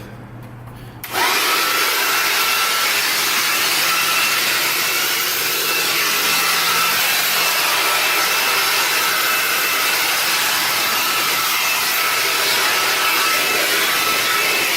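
An air blower switches on about a second in and runs steadily: a loud rush of air with a high motor whine. It is blowing leftover water and loose dirt off a freshly washed engine bay.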